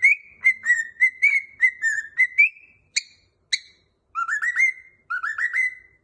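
Cockatiel whistling a song phrase: a quick run of short, clear notes that rise to one pitch and repeat. After about three seconds come two sharp chirps, then two more quick rising runs.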